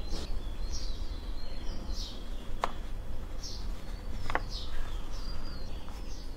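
A small bird chirping repeatedly in the background: short chirps that slide downward in pitch, about one or two a second, over a steady low hum. Two sharp clicks sound in the middle.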